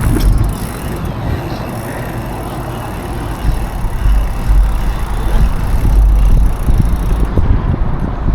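Wind buffeting an action camera's microphone during a mountain bike ride. It mixes with the tyres rolling and the bike rattling over the trail, and the low rumble swells again after a slightly quieter stretch.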